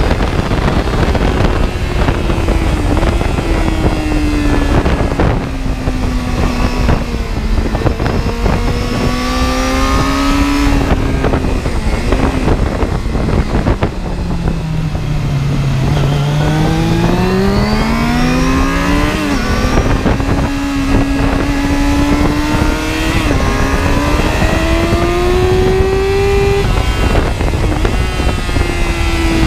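Car engine running hard, its pitch sinking slowly to a low point about halfway through and climbing back as the car slows and accelerates again. A few short steps in the pitch come from gear changes, with wind buffeting throughout.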